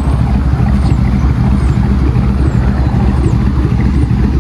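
Chevy Tahoe engine idling, a steady low rumble.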